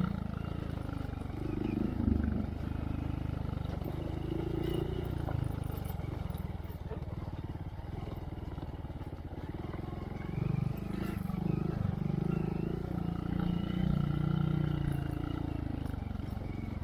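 Honda Monkey's single-cylinder engine through a Yoshimura RS3 exhaust with spark arrestor, riding a trail with the revs rising and falling repeatedly as the throttle is worked.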